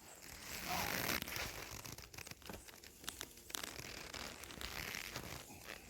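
Rustling and crinkling handling noise with many small clicks, loudest about a second in.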